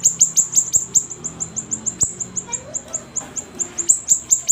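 A siri-siri songbird singing a fast chattering run of short, high notes, each sliding downward, about eight a second, with a brief pause in the middle.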